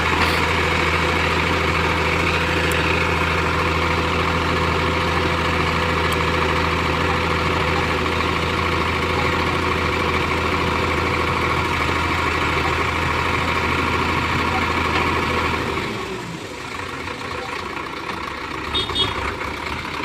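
Heavy diesel engine running steadily at a constant pitch, which falls away and quietens about sixteen seconds in.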